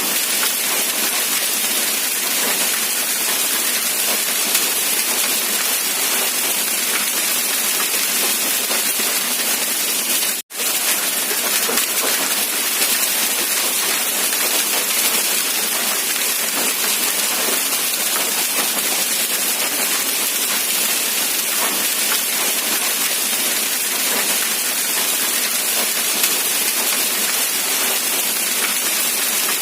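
Steady rain falling, an even unbroken hiss, with a split-second gap about ten seconds in.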